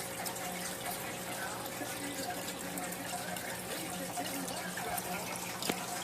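Water trickling steadily in an aquarium, with a low hum underneath. There is one faint tap near the end.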